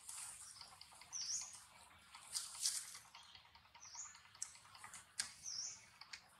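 A bird repeating a short, high hooked chirp about every two seconds over faint outdoor hiss. A louder scratchy burst comes about two and a half seconds in, and a sharp click about five seconds in.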